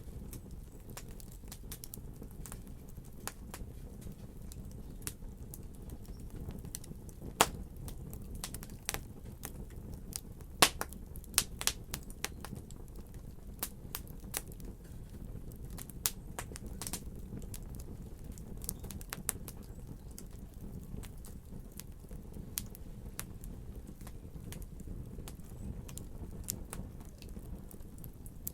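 Wood fire in a fireplace crackling, with sharp pops and snaps at irregular intervals over a low steady rumble of the flames; a few louder pops come about 7 seconds and 11 seconds in.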